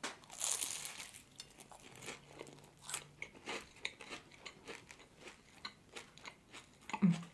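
Close-miked bite into a flaky, crunchy puff pastry soaked in maple syrup with pecans: a crisp crackling crunch in the first second, then chewing with many small clicks.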